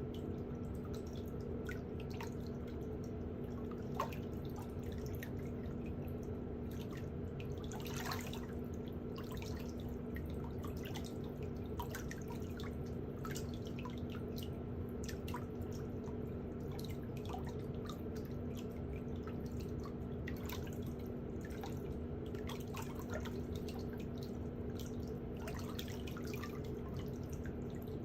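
Small pedicure tools clicking irregularly against toenails over a steady low hum.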